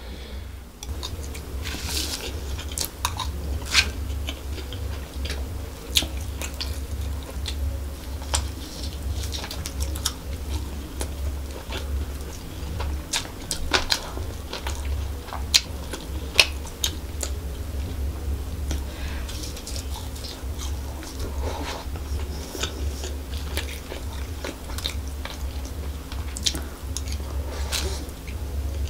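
Close-miked chewing and biting of a mouthful of chicken fried rice and tandoori chicken, with short, sharp clicks and smacks scattered throughout and a metal spoon scooping the rice. A steady low hum sits underneath.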